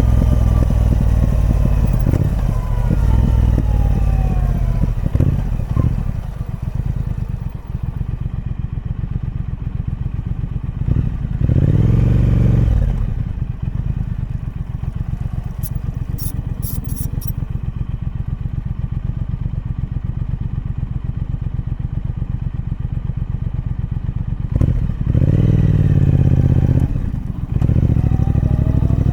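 Triumph Speed Twin 1200's parallel-twin engine through its stock exhaust. The engine note falls as it slows over the first few seconds, settles into a steady, even pulse, and swells with short openings of the throttle about twelve seconds in and again near the end.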